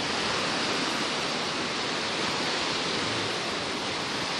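Sea surf rushing steadily on the shore, an even noise with no breaks.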